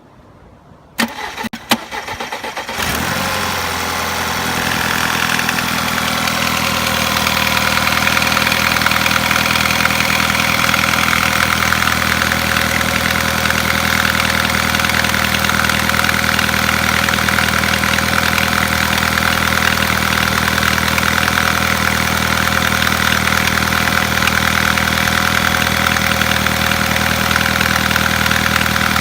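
Volkswagen Passat B6 engine being cranked by the starter about a second in, catching near three seconds, then idling steadily. The engine has a knock, the fault the sound is meant to show.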